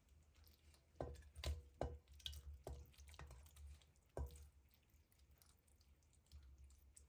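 A series of about seven soft knocks and clicks over a few seconds, a few with a brief ring, like kitchenware being handled and set down.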